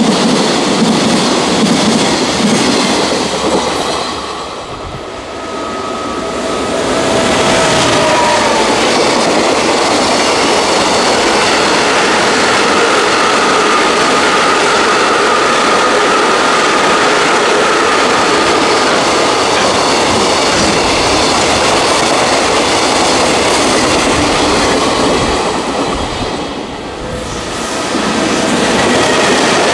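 Freight train running past close by, with wheels clattering steadily over the rails. A thin high tone sounds over the noise in the middle. The noise dips briefly twice, about five seconds in and near the end.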